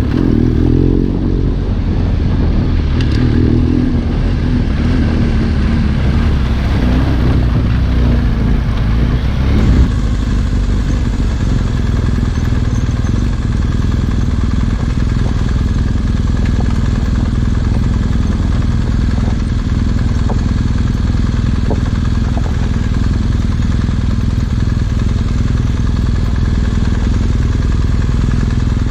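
Trail motorcycle engine running as the bike is ridden, its pitch rising and falling with the throttle for about the first ten seconds, then holding steadier.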